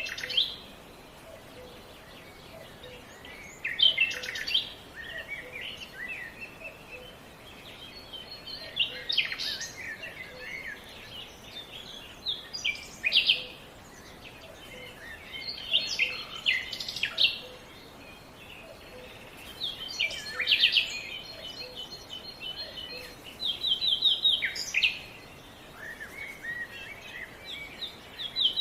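A songbird singing short phrases of quick trills and sweeping notes, repeated about every four seconds, over a soft steady background.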